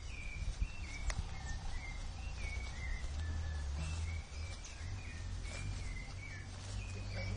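A bird calling over and over in short chirps, about two a second, over a steady low rumble.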